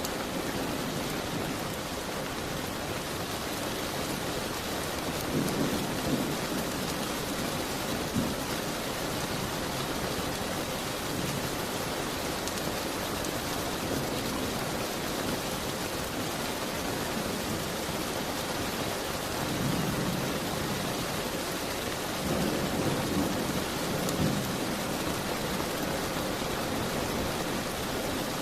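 Steady rain, with a few low rumbles rising out of it several seconds in and again about two-thirds of the way through.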